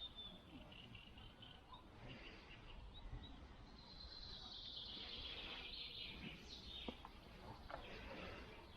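Faint outdoor birdsong: a string of short high chirps, then a longer, denser song from about four to seven seconds in.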